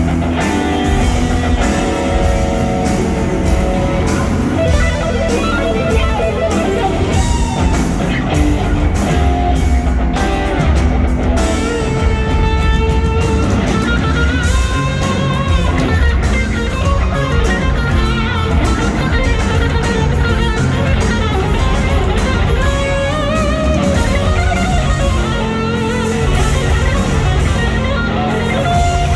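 Live rock band playing, with an electric guitar lead of bending, wavering notes over drums and bass.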